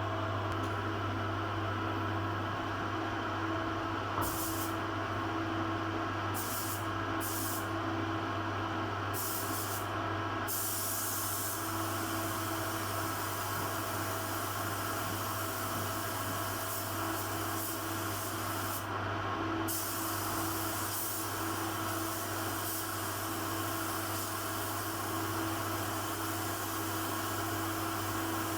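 Compressed-air hiss from an air tool in a body shop, switching on and off in several short bursts and then running for long stretches, over a steady low hum.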